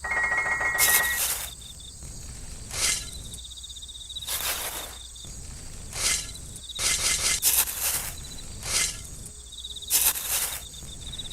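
Crickets chirping in a steady high trill, with short hissing noises every second or two and a brief high tone in the first second.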